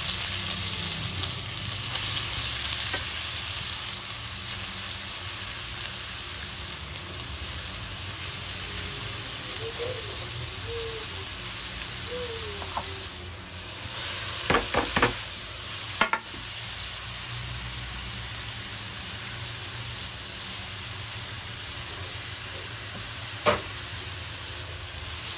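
Grated carrots frying with a steady sizzle in hot desi ghee in a kadhai. A few sharp clicks, a utensil knocking the pan, come about halfway through, and another comes near the end.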